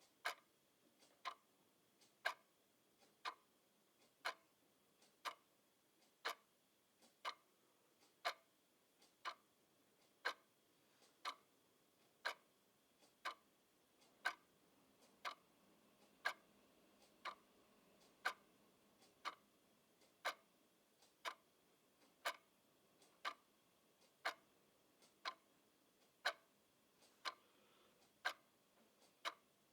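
Clock ticking with sharp, even clicks about once a second, in a steady rhythm against a very quiet background.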